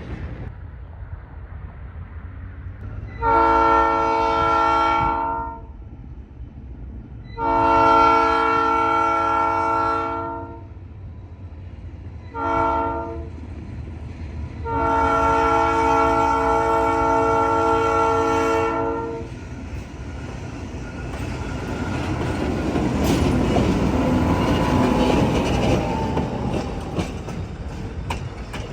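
Locomotive air horn sounding the grade-crossing signal: two long blasts, one short and a final long one, with several notes sounding together as a chord. The train then comes through with a swelling rumble and clatter of wheels on the rails.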